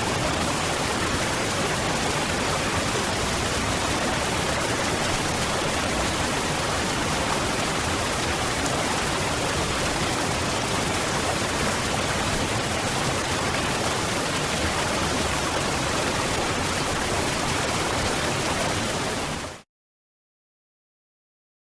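Waterfall: a steady, even rush of falling water. It fades out quickly about 19 seconds in, and the last two seconds are silent.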